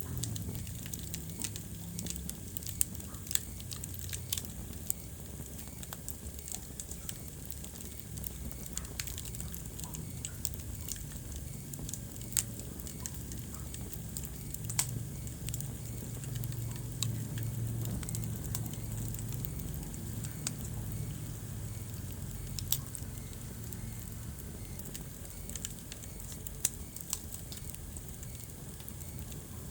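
Wood fire burning in a fireplace, crackling with irregular sharp pops over a low steady rumble of flame that swells for a few seconds mid-way.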